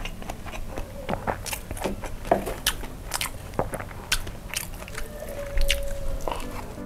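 Close-miked chewing and mouth sounds of a person eating kimchi fried rice: a string of wet smacks and small clicks as he chews, with a wooden spoon scooping rice off a wooden board partway through.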